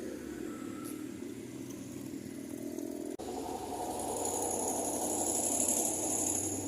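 Road vehicle noise. The sound breaks off abruptly about three seconds in, then resumes louder and swells toward the end, as when a vehicle comes closer.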